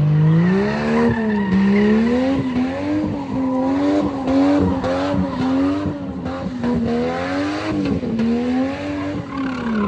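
Car engine held at high revs with its pitch rising and falling about once a second, over the hiss and squeal of spinning tyres: a car doing a burnout or donuts.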